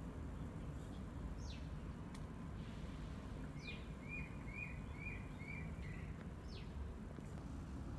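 Birds calling: a short note sliding down in pitch, repeated about every two and a half seconds, and about halfway through a run of five quick chirps, over a steady low background rumble.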